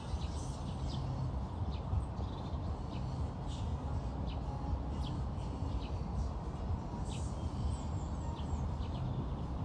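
Birds chirping outdoors, many short calls scattered throughout, over a steady low rumble.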